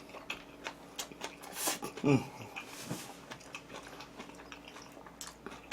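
Close-up chewing and mouth sounds of someone eating a jokbal lettuce wrap: wet smacking clicks and crunching, with one short hummed or voiced sound about two seconds in.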